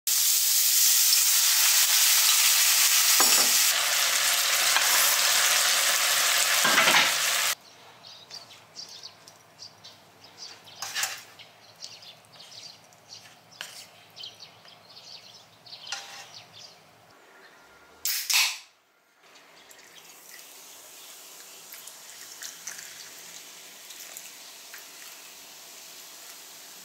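Shrimp with chilli and garlic frying in a non-stick pan: loud, steady sizzling for about seven and a half seconds that cuts off sharply. Then quieter scattered clinks and scrapes of a spoon serving onto a plate, with one louder clatter about eighteen seconds in.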